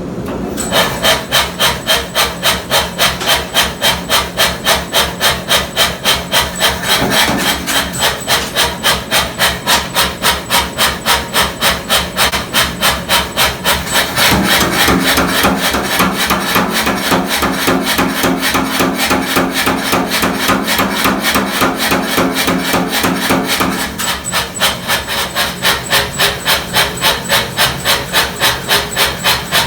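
Power hammer striking hot steel in a fast, even rhythm of a few blows a second, starting about a second in.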